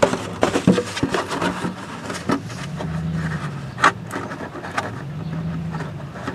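Scattered clicks, knocks and scraping of things being handled, with one sharper knock a little before four seconds in.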